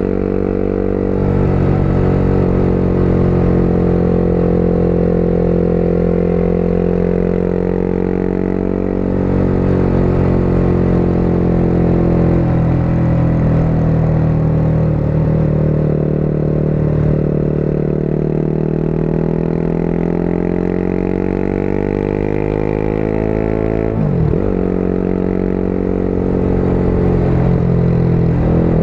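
Motorcycle engine running while riding, its note rising and falling gently with the throttle, with a brief sharp drop and recovery in pitch near the end.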